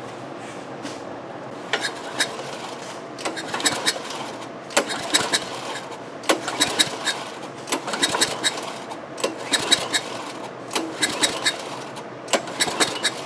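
Tecumseh lawn mower engine being cranked by its recoil pull-starter with the spark plug out for a compression test, about eight pulls, each a roughly one-second burst of clicking and rattling; the engine does not fire. The test reads about 50 psi, low compression that the owner puts down to burned rings or a burned exhaust valve.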